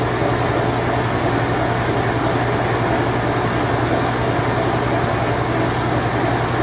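Late-1980s Whirlpool Imperial Clean Touch washing machine in its spin cycle: a steady hum with a constant low tone under an even whir.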